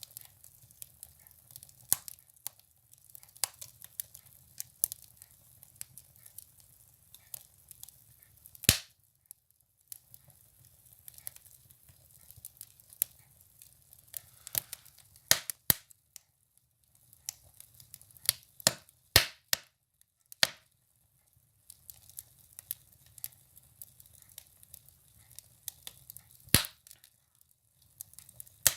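Firewood burning in a stove: irregular sharp crackles and pops of wood in the fire, some much louder than others, over a faint low rumble of the flames.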